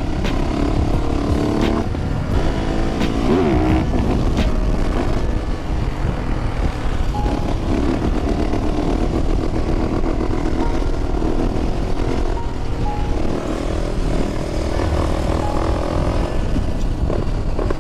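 Motorcycle engine running under way, its pitch rising and falling with the throttle, with a quick dip and rise about three seconds in, over a steady low rumble of wind and road noise.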